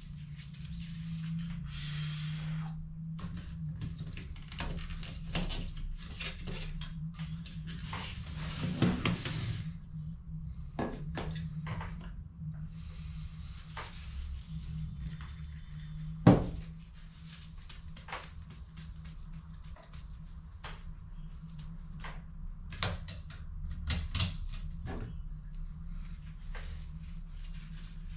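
Plastic clicks and knocks of a laser toner cartridge being taken apart and handled for refilling, with one sharp knock about sixteen seconds in, over a steady low hum.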